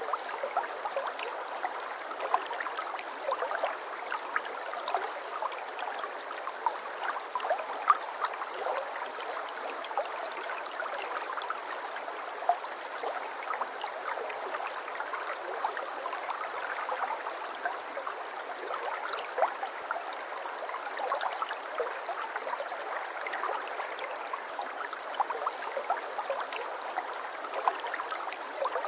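Shallow brook babbling steadily over stones, a continuous rush of water dotted with many small splashes and gurgles.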